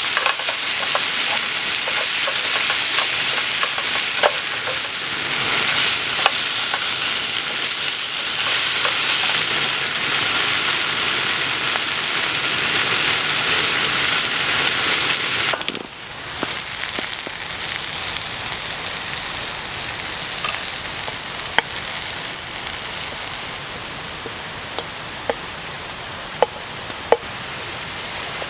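Food sizzling in a pan over a camp stove, with scattered crackles and pops. About halfway through the sound drops suddenly to a quieter hiss with a few sharp clicks.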